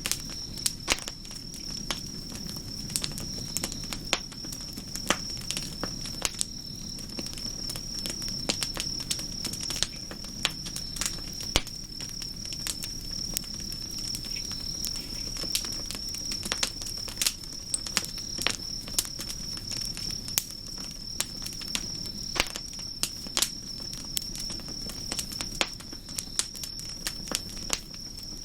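Wood campfire crackling, with irregular sharp pops all the way through, over a low steady rumble and a steady high-pitched whine.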